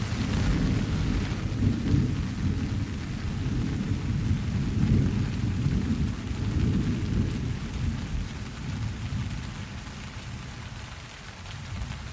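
Steady rain with a long, low roll of thunder that sets in at the start and dies away after about eight seconds.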